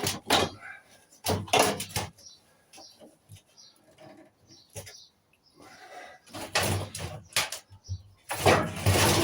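Irregular clattering and scraping of metal parts being handled while a microwave is taken apart, in several short loud clusters with quieter gaps between.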